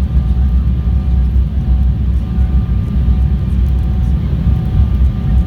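Airliner cabin noise heard from inside the cabin during landing: a loud, steady low rumble of engines and airflow, with a faint steady whine over it.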